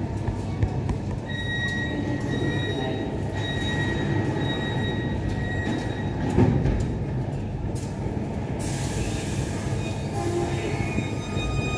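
A local train moving in a station over a steady low rumble, its steel wheels squealing in a steady high tone for several seconds. A single thump comes about six seconds in, and a hiss from about nine seconds on.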